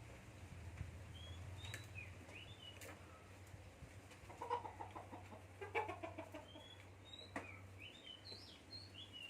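Gouldian finches chirping: many short, high calls scattered throughout, with a few soft clicks and two louder, lower calls about halfway through.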